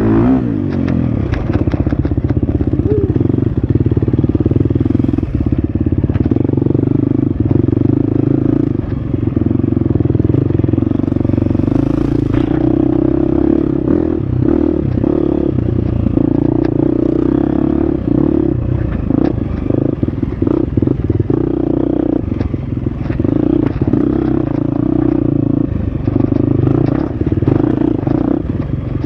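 Husqvarna FX 350's single-cylinder four-stroke dirt bike engine running continuously under load on a trail, with frequent clatters and knocks from riding over rough ground.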